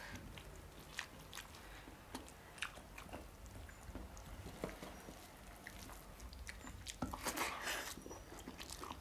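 Close-miked eating sounds: people chewing food by mouth, with scattered small wet clicks and a louder stretch of chewing and mouth noise about seven seconds in.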